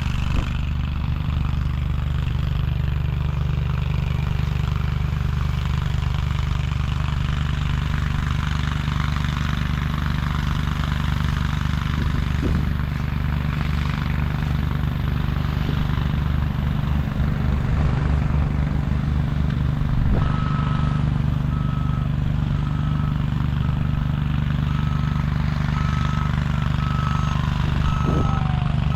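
A large vehicle engine running steadily. From about twenty seconds in, a vehicle's reversing alarm beeps at a steady pitch, about once a second.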